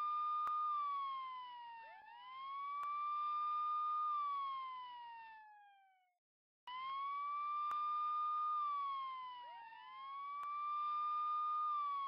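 Police siren in a slow wail: each cycle rises, holds a high tone for about two seconds, then falls away while the next rise begins. It cuts out abruptly about six seconds in and starts over a moment later, as a repeating loop.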